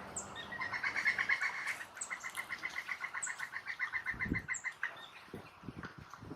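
Pileated woodpecker giving its long, rapid series of loud 'cuk-cuk-cuk' notes, about seven or eight a second, which stops about five seconds in. A short high chip repeats about once a second behind it, and a few soft thumps come near the end.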